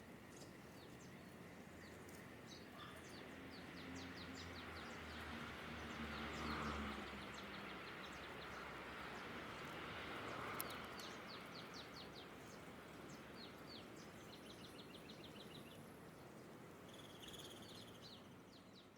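Small songbirds chirping and twittering in quick runs of short notes, with a buzzy trill near the end, over steady outdoor background noise. A low rumble swells and fades in the first half.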